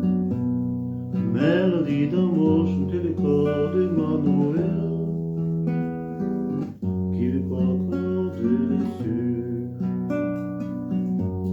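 Acoustic guitar strumming sustained chords, with a wordless vocal melody in two phrases over it, at the close of a song.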